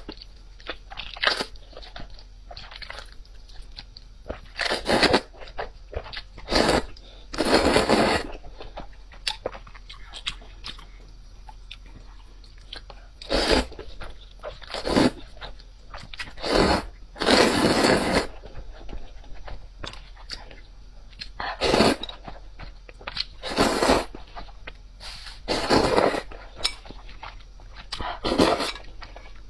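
Close-up eating sounds: loud crunchy bites and chewing come in separate bursts every second or two, with quieter chewing between them.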